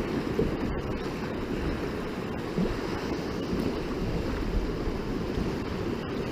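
Steady noise of sea waves and wind, with the wind rumbling on the microphone.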